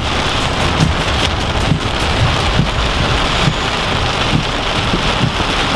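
Heavy hurricane rain pouring down, loud and steady.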